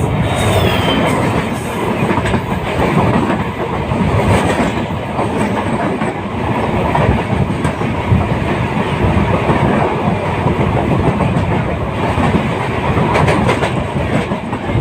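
Moving passenger train running steadily, its wheels rumbling and clattering over the rails.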